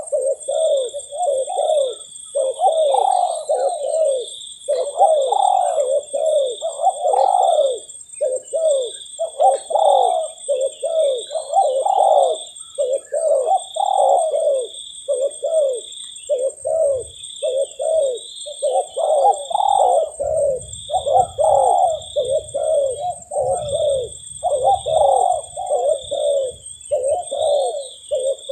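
Spotted doves cooing continuously in repeated phrases of soft descending coos, with a steady high-pitched whistling line running behind them.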